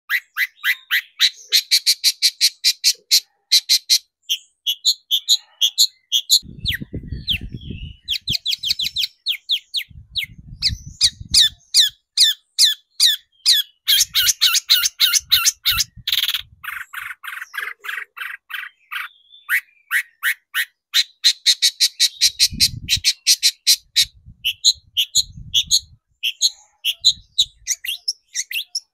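Long-tailed shrike (cendet) singing: long runs of rapid, harsh, scratchy repeated notes, several a second, with short pauses between runs. A faint low rumble comes in under the song a few times.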